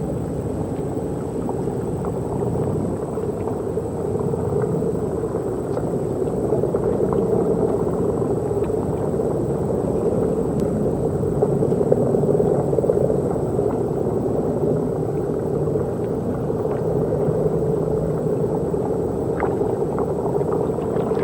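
Steady low machinery rumble with no distinct events, its level rising slightly midway.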